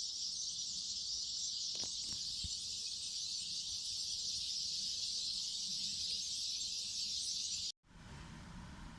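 Steady high, shrill insect chorus, a continuous hiss with no breaks, cutting off abruptly near the end.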